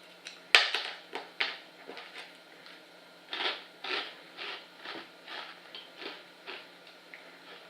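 Biting into a crispy baked edamame snack: a sharp crunch about half a second in and a few smaller cracks, then crunchy chewing at about two chews a second.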